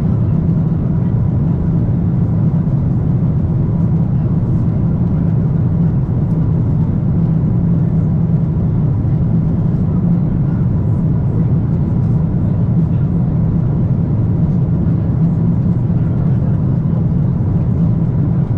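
Steady cabin noise inside a Boeing 777-300ER airliner in flight: an even low drone of air and engines.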